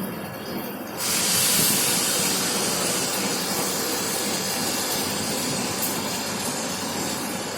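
A sudden loud hiss of compressed air escaping from a train's air brake system, starting about a second in and slowly easing off.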